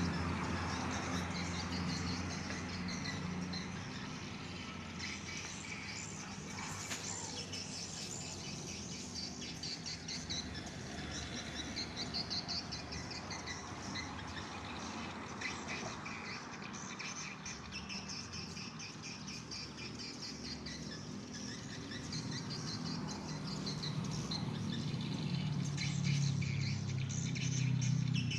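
Swiftlets twittering: many rapid, high, short chirps overlapping throughout, with a steady low hum underneath.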